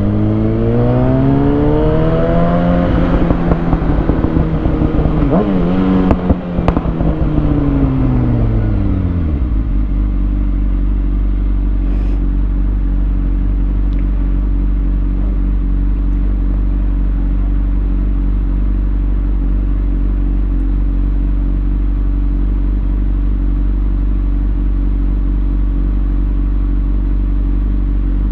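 Kawasaki Ninja ZX6R inline-four with a Lextek SP7C carbon exhaust and decat headers. It pulls up in revs briefly, then the revs fall away over a few seconds, with a sharp click in between, as the bike slows. For the rest of the time it idles steadily.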